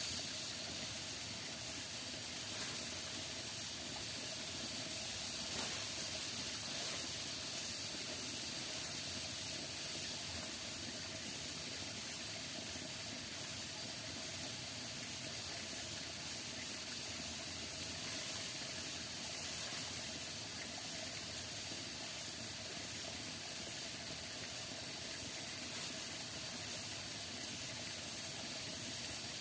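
Steady rainforest ambience: an even, unbroken hiss with faint constant high-pitched tones layered over it.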